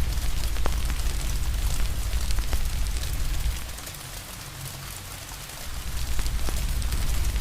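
Steady rain hiss with a wood fire crackling, scattered sharp pops over a low rumble that fades out for about two seconds in the middle.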